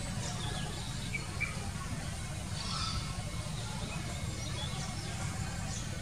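Faint, scattered short bird chirps over a steady low background rumble.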